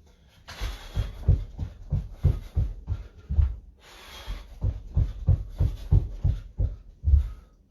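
Footfalls thumping on a floor at about three a second, someone jogging on the spot, with a few loud, breathy exhalations.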